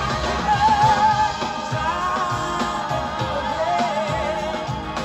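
Live band playing a soul-rock song, with a wavering lead melody over drums and bass.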